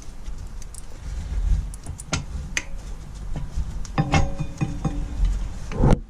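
Metal tools and parts clinking and knocking, with a few sharp strikes that ring briefly. The busiest cluster comes about four seconds in, and a loud knock lands just before the end.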